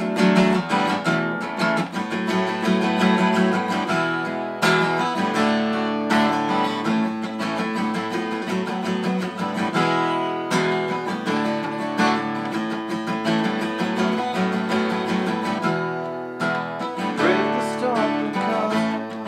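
Solo acoustic guitar strummed and picked in an instrumental passage of the song, with no singing.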